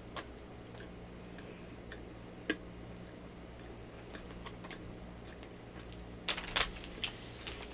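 Close-miked mouth sounds of eating a soft cookie: scattered small wet clicks, then a louder cluster of crackling clicks about six seconds in. A low electrical hum runs underneath.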